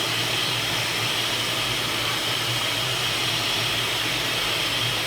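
Kärcher WD5 wet & dry vacuum cleaner motor running steadily, a constant whooshing hiss with a low hum underneath.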